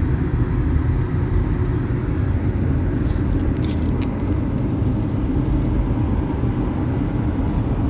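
Steady road and engine rumble of a car driving, heard from inside the cabin, with a few faint ticks about three to four seconds in.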